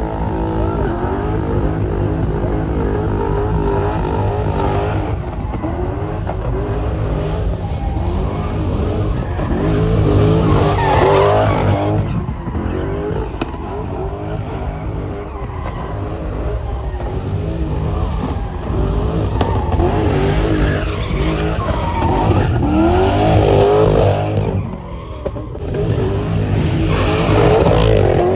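Vehicle engines revving hard with tyres squealing, the pitch wavering up and down and swelling louder several times, as in burnouts or donuts.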